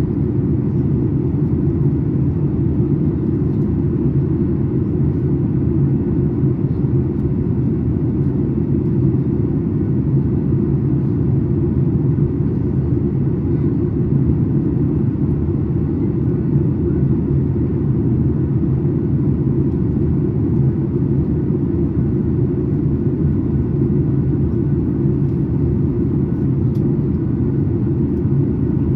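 Steady cabin noise inside a Boeing 737 MAX 8 airliner in flight: the CFM LEAP-1B engines and the airflow over the fuselage make an even, low rumble.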